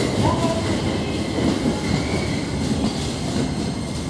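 A Keikyu electric train rolling out of the platform, its wheels clattering over the rail joints with a little wheel squeal. The sound slowly fades as the train pulls away.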